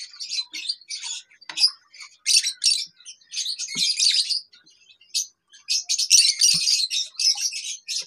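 Many small cage birds chirping, with short high calls coming in overlapping clusters and brief pauses between them.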